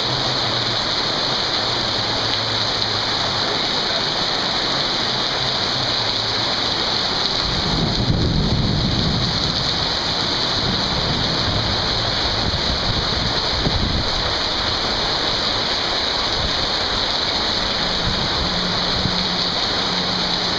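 Heavy rain pouring down steadily. A low rumble of thunder swells about eight seconds in and lasts a couple of seconds, with a shorter low rumble a few seconds later.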